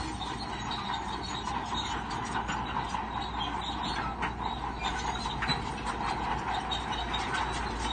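Bulldozer working: diesel engine running steadily with the continuous clanking and rattling of its steel tracks.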